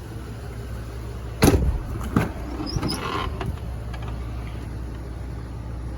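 Ford F-550's 6.8-litre V10 gasoline engine idling as a steady low hum, with a loud knock about one and a half seconds in, a smaller click just after two seconds, and some creaking around three seconds as the cab is handled.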